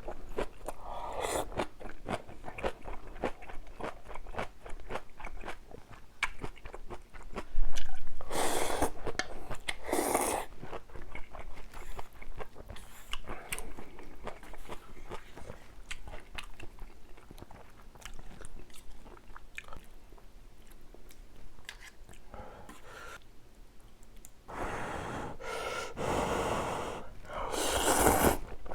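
Close-miked eating of spicy ramyun noodles and kimchi: steady chewing with many small wet clicks and crunchy bites of kimchi, broken by a few longer slurps of noodles, twice around a third of the way in and again near the end.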